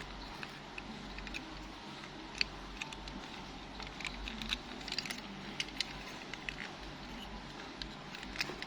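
Toy car being handled: scattered small clicks and ticks of its parts being fiddled with, over a steady low background hum.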